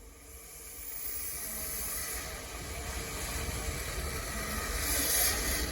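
Steam locomotive hissing steam, the hiss growing steadily louder.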